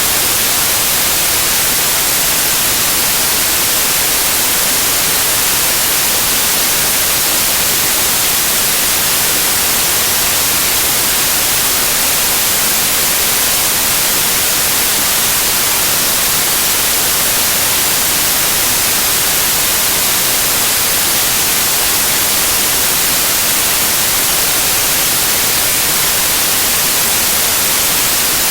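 Loud, steady white noise: an even hiss across the whole range, with no change.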